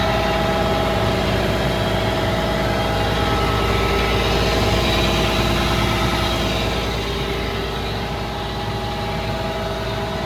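Isuzu diesel engine of a Hitachi Zaxis 200 LC hydraulic excavator idling steadily, heard close up.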